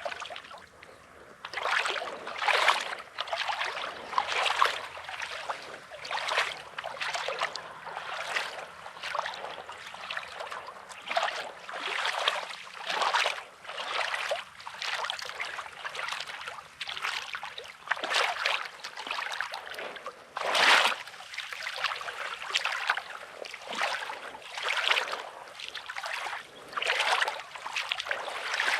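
Footsteps crunching on coarse, rocky beach sand about once a second, over small waves washing on the shore.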